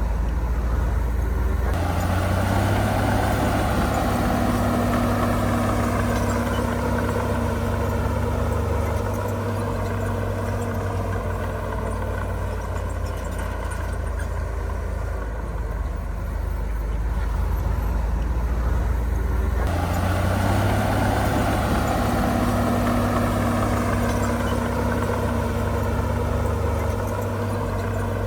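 Heavy diesel engine of earth-moving machinery running continuously. It revs up under load about two seconds in and again near twenty seconds, easing back to a lower note in between.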